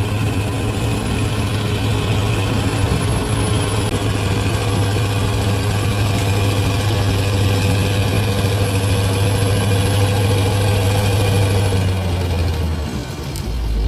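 Large bulldozer's diesel engine running steadily with a strong low hum. Near the end the engine note drops lower and the level dips briefly.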